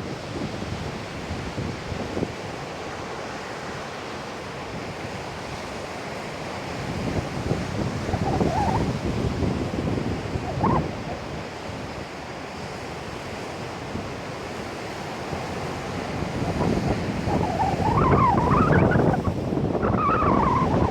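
Heavy surf from a typhoon breaking on a beach, with wind buffeting the microphone. The waves swell louder about a third of the way in and again over the last few seconds.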